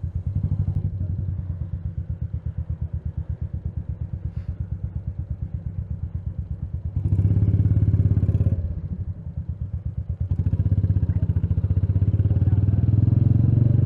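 Royal Enfield Meteor 350's single-cylinder engine starting suddenly and settling to an even, pulsing idle, then rising in revs about seven seconds in, dropping back, and running louder again from about ten seconds in as the bike pulls away.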